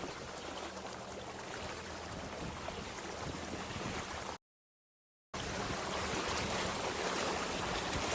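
Steady wind and water noise while sailing a small dinghy, cutting out to dead silence for about a second midway, then returning a little louder.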